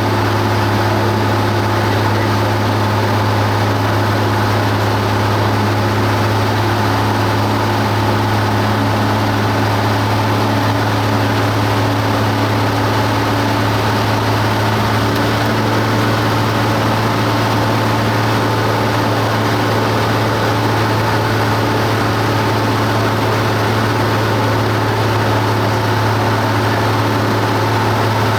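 Cessna 172 Skyhawk's piston engine and propeller droning steadily in flight, with a slight shift in tone about halfway through.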